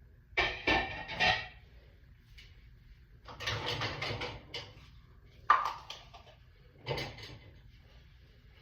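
Dishes and glassware clinking and clattering in four short bursts as they are handled.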